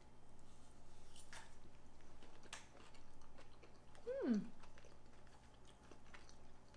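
Two people chewing mouthfuls of soft, mushy tuna and pineapple bake, with faint wet mouth clicks. About four seconds in, one of them gives a short hummed "mm" that rises and then falls in pitch.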